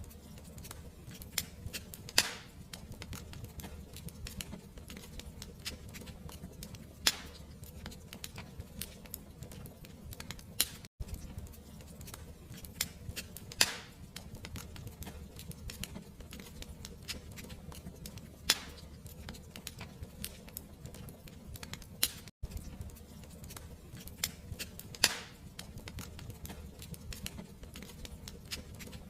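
Wood fire crackling in a fireplace: a steady low rumble of burning under constant small crackles, with a louder sharp pop every few seconds.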